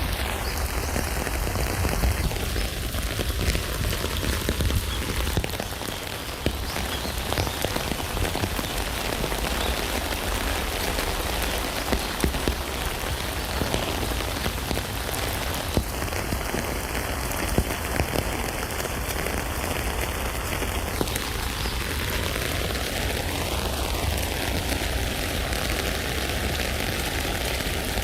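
Steady rain falling on a tent, many separate drops tapping on the fabric, with a steady low rumble underneath.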